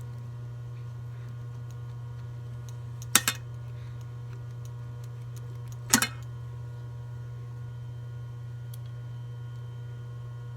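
Two sharp metallic clinks, each a quick double knock, about three seconds apart, over a steady low hum.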